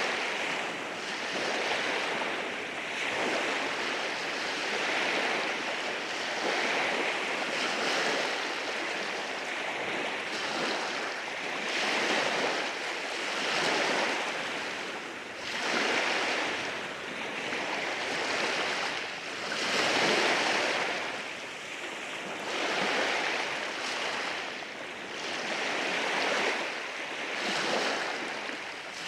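Ocean waves washing in over rocks, the surf swelling and easing every couple of seconds in a continuous hiss and wash.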